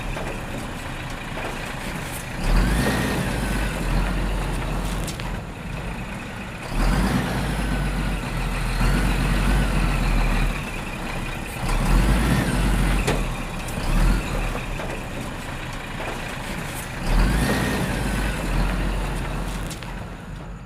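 Heavy machinery engine running, swelling louder every few seconds with a whine that rises and falls in pitch at each swell.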